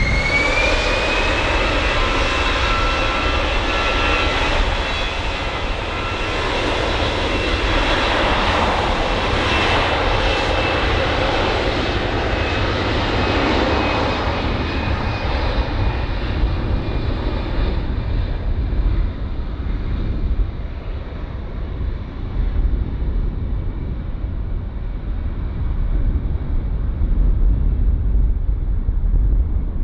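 Jet airliner's engines with a high whine that rises briefly and then holds steady over a broad roar. The roar fades away after about fifteen seconds, leaving a low rumble.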